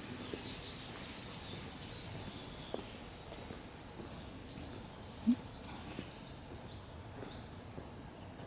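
A bird calling over quiet outdoor background noise: a steady run of short high notes, about two a second. A brief low sound about five seconds in is the loudest moment.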